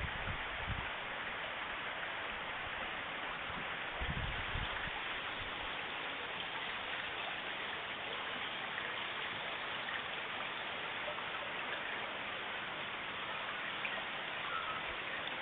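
Floodwater rushing in a steady, even roar of water, with a few brief low thumps at the very start and again about four seconds in.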